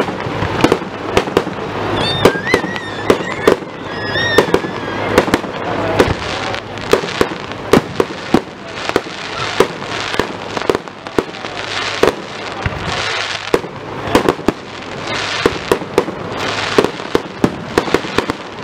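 Aerial fireworks going off in quick succession: many sharp bangs, a few each second, over a continuous hiss and crackle of bursting shells.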